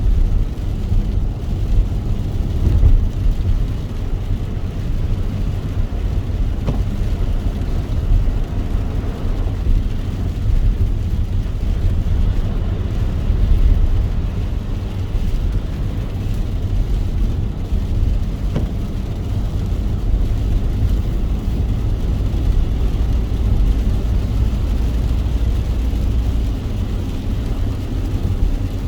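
Car driving in the rain: a steady low rumble of road and engine noise, with a fainter even hiss above it.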